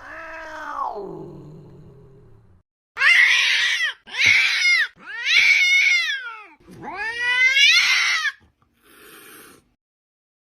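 A cat meowing loudly, four drawn-out wailing meows in a row, each rising then falling in pitch, after a lower, fading call at the start.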